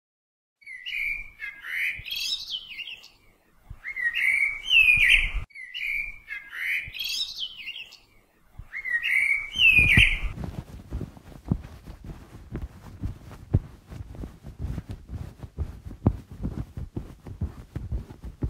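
Bird calls: four chirping phrases of rising and falling notes over the first ten seconds, then a run of irregular soft clicks and taps.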